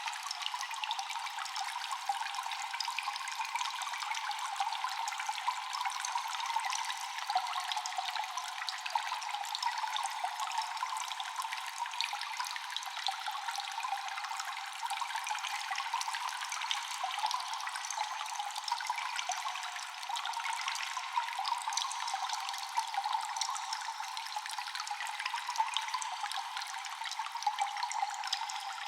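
Water dripping and trickling in a cave, many small drops falling continuously over a steady watery hiss, with an echo.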